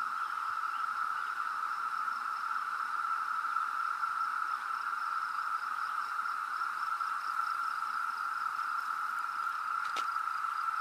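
Massed chorus of 17-year periodical cicadas, a steady unbroken high-pitched drone with no pauses.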